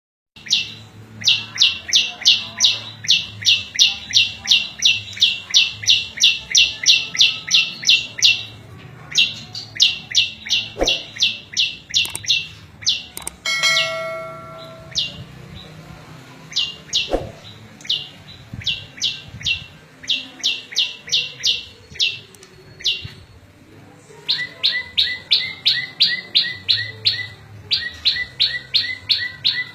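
Prenjak lumut songbird calling: long runs of sharp, high repeated notes, about three a second, broken by short pauses.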